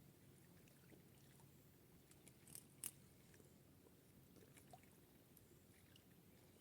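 Near silence, with a few faint clicks and ticks in the middle and one sharper click about three seconds in.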